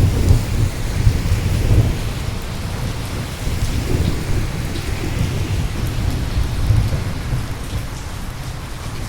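Steady rain with a low rumble of rolling thunder, heaviest in the first two seconds, swelling again twice and easing toward the end.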